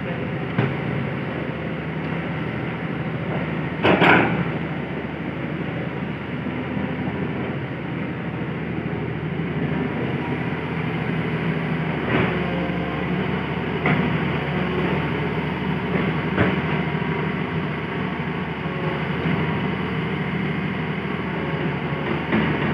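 Hitachi excavator's diesel engine running steadily under work, with several sharp knocks as it digs, the loudest about four seconds in.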